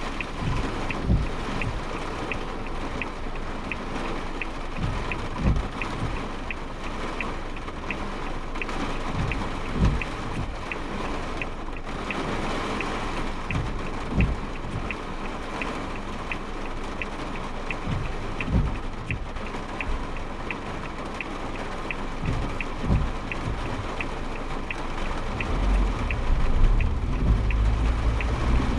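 Rain and storm wind on a Suzuki Jimny Sierra heard from inside the cabin while driving, with deep thumps every few seconds and a regular light ticking throughout. A low rumble swells near the end.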